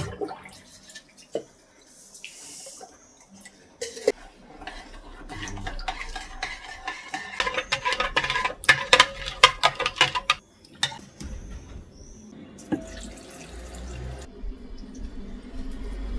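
Water running at a kitchen sink, with dishes and glass clinking and clattering, busiest in the middle.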